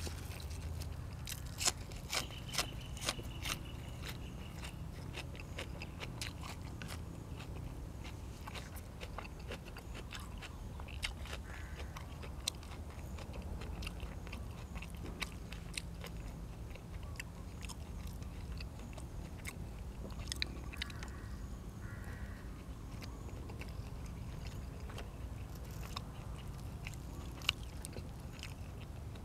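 A person chewing and biting food close to the microphone, with irregular sharp clicks and some crunching, over a steady low hum.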